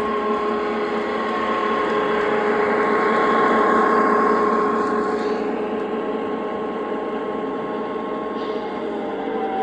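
Lionel O-gauge Santa Fe E8 model diesel locomotives running on three-rail track: a steady motor whine with wheel and rail rumble that grows louder to about four seconds in, then fades as the train moves on.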